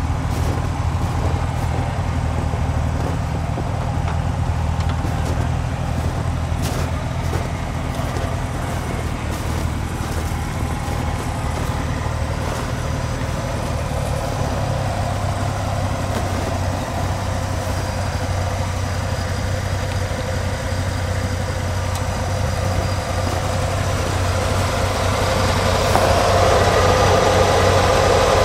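Suzuki Samurai engine idling steadily while the vehicle stands still, getting somewhat louder near the end.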